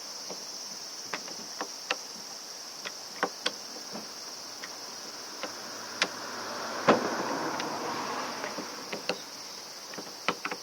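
Steady high-pitched insect chirring, with scattered light clicks and knocks from parts and tools being handled during reassembly of the brush cutter. The loudest is a knock about seven seconds in, followed by a brief rustle.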